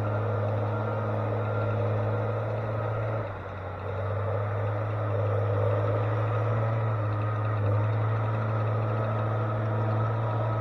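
Heavy logging machine's engine running steadily with a low, even drone, easing off briefly about three seconds in before picking back up.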